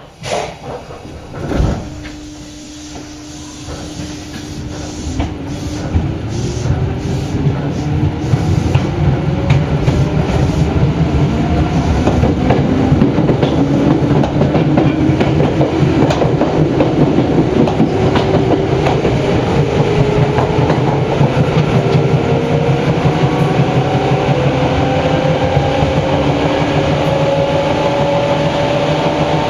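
Seibu New 101 series electric commuter train starting away from a station: two sharp thuds in the first two seconds, then a rising rumble as it pulls off. Its traction motors whine in several tones that climb slowly in pitch as the train gains speed, with regular clacking of the wheels over rail joints.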